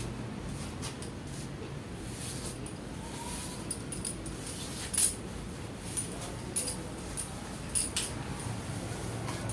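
A comb drawn through long, wet hair in irregular scratchy strokes, a few a second, over a steady low hum.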